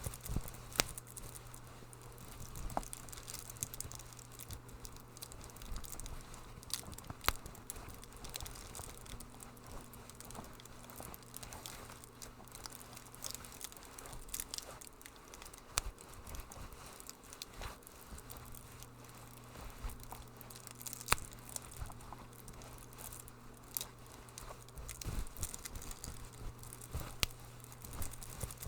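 Wood fire crackling in a fireplace: irregular sharp pops and snaps over a soft hiss, with a steady low hum underneath that fades out for a few seconds midway.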